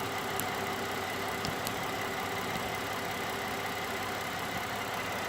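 2010 Ford Fusion Sport's 3.5-litre V6 idling steadily, just restarted after a water pump replacement and warming up.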